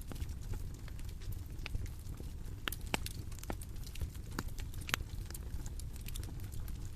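Bonfire crackling: irregular sharp pops and snaps of burning wood over a steady low rumble of the flames, with a few louder pops around the middle.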